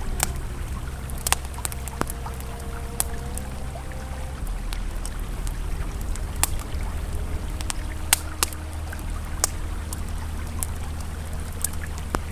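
Campfire crackling with irregular sharp pops, over the steady rush of a flowing river and soft held ambient tones that slide in pitch now and then.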